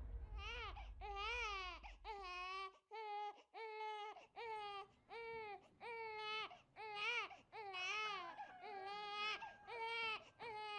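A baby girl crying hard in a steady run of repeated wails, about one a second, with a low hum under the first few seconds.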